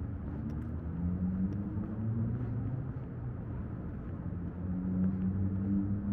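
Motor vehicle engine rumble, a low running tone that drifts slightly in pitch and grows louder near the end, as of a car passing or idling close by.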